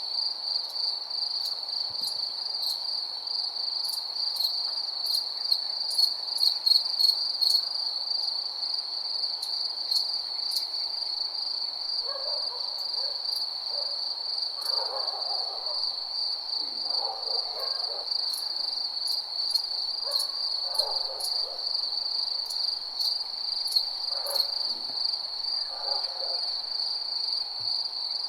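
Night insect chorus, crickets chirping in a steady high trill throughout. From about the middle on, scattered lower calls from another animal come and go.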